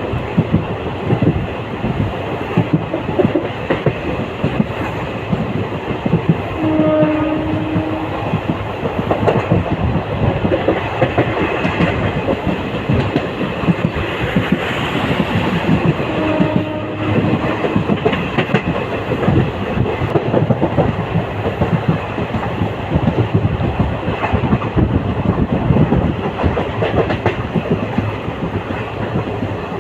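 Passenger train running along the track, its wheels clattering over the rails with a steady rattle. Two short steady tones sound over it, about seven seconds in and again about sixteen seconds in.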